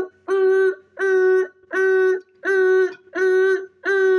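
A person's voice making a repeated 'eeh, eeh' sound effect at one steady pitch, about three notes every two seconds, like a machine's warning beeper.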